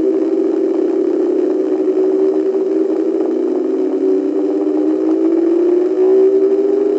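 Electronic tones from a breadboard prototype circuit: a steady drone of several close pitches that waver and beat against each other, with one pitch sliding slowly down and back up in the second half.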